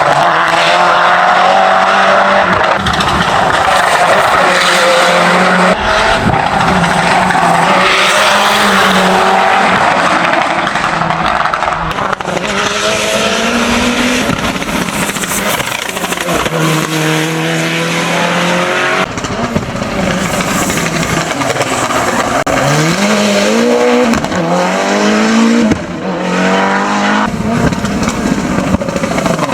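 Mitsubishi Lancer Evo VIII hill climb prototype racing uphill at full throttle, its engine pitch climbing and dropping again and again as it runs through the gears and corners. The sound jumps abruptly a few times.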